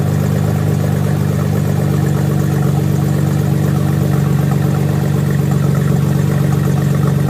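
Jeep Wrangler JK's V6 idling steadily through a Dynomax Race Bullet exhaust, a deep even burble heard close to the tailpipe tip.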